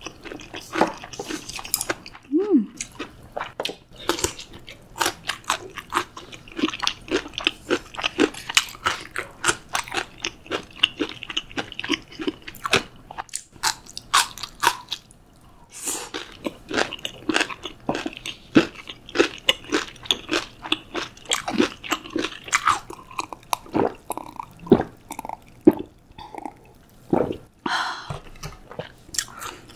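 Close-miked ASMR eating sounds: a person chewing and crunching food, with many crisp crackles in quick succession.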